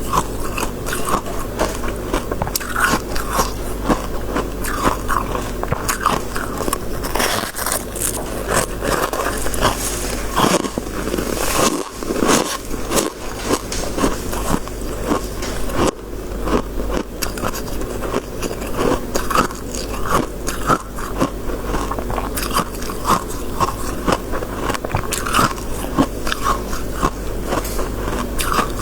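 Close-miked biting and chewing of crisp freezer frost, with dense, irregular crunching and scraping throughout.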